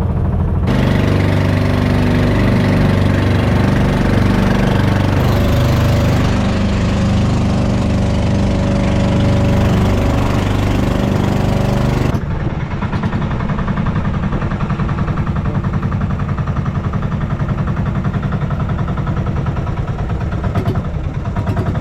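Boat engine running steadily under way, then easing back to a lower, quieter setting about twelve seconds in.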